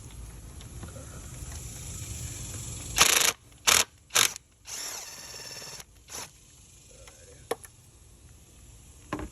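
Handheld power impact driver run in several short bursts, one about a second long, loosening the 8mm intake manifold bolts, with a click in between.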